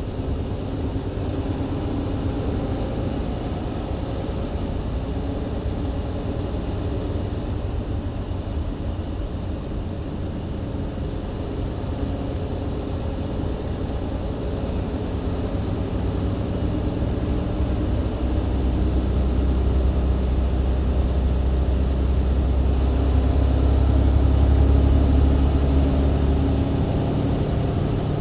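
Mercedes-Benz Citaro C2 LE MÜ Hybrid bus with Voith automatic gearbox, heard from inside, running steadily on a country road. From about halfway the engine note deepens and grows louder as the bus pulls harder, peaking near the end, with a faint whine high up that rises and falls.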